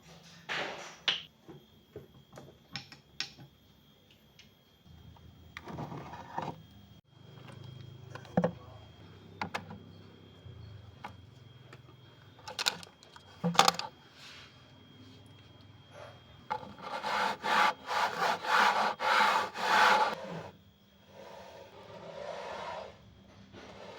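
Household cleaning by hand: scattered knocks and clicks of things being handled and set down, two sharp knocks about halfway through, then a loud run of quick rhythmic scrubbing strokes, about three a second, lasting some four seconds.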